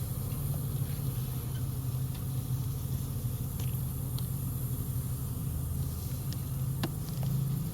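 A steady low hum, with a few light clicks and taps, the sharpest about seven seconds in.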